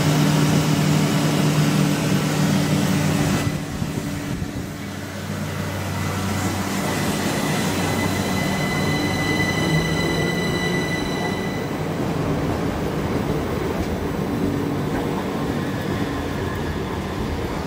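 Southern Class 377 Electrostar electric multiple unit running past close by along the platform: a low electrical hum and rumble for the first few seconds, then a steady high whine from about six to twelve seconds in, over continuous wheel-on-rail noise.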